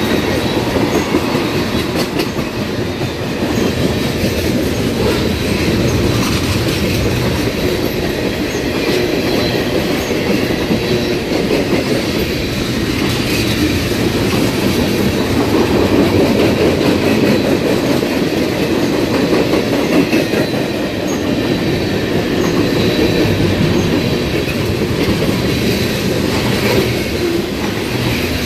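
A train's cars rolling past close by: a steady, loud rumble of steel wheels on the rails, with repeated clicks as the wheels cross rail joints.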